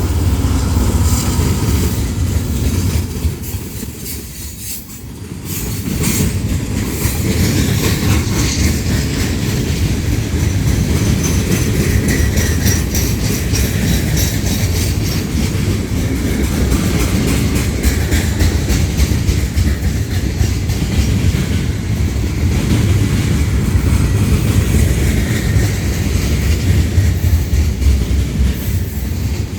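CSX freight train rolling past at steady speed, a loud continuous rumble with wheels clacking over the rail joints. It drops briefly quieter about four seconds in, then returns to full level.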